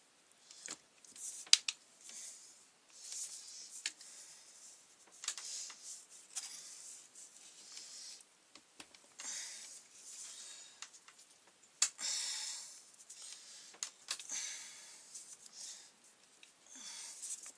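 Irregular clicks, taps and short scrapes of hand tools and plastic parts being handled while a petrol brush cutter is taken apart, with two sharp clicks standing out, about a second and a half in and near twelve seconds in.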